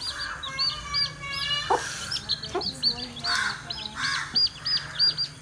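A small bird chirping over and over from outside: short high notes about three times a second. Faint voices and a couple of soft clicks sit behind it.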